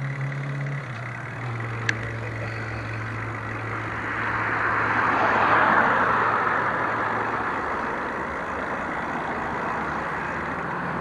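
Road traffic: a vehicle engine's steady low hum, then a vehicle passing, swelling to its loudest about halfway through and fading away. A single sharp click about two seconds in.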